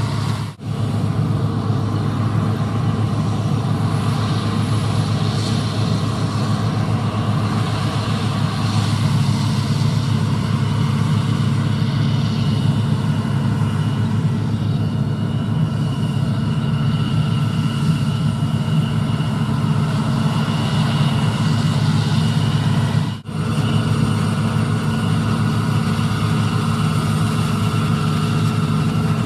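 Heavy diesel engines of harvest machinery (combine harvesters and grain-hauling tractors) running steadily with a low hum. A faint high whine joins after about fifteen seconds. The sound cuts out for an instant about half a second in and again at about 23 seconds.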